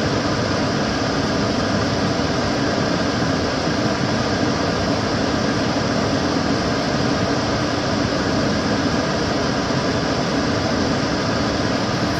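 Kitchen cooker hood extractor fan running steadily: an even rush of air with a deeper hum underneath and no change in speed.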